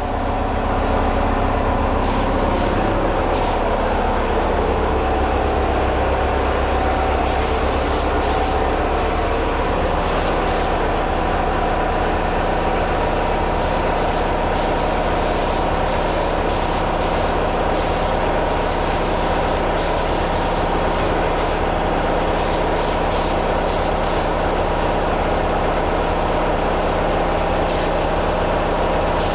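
Air compressor running steadily, with short hisses of a paint spray gun being triggered on and off every few seconds.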